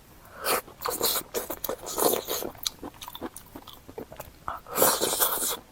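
Crunchy food being bitten and chewed close to the microphone: repeated crackling crunches, with a louder crunching bite near the end.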